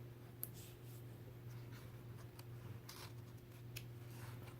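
Faint rustling and soft clicks of a picture book's paper pages being handled and turned, over a steady low hum.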